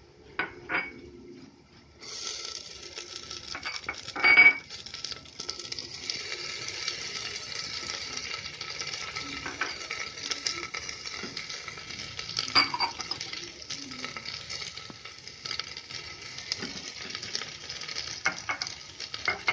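Chopped vegetables frying with a steady sizzle in hot ghee in a pressure cooker, the sizzle starting about two seconds in as more vegetables go into the fat. A few sharp metal clinks against the cooker, the loudest about four seconds in.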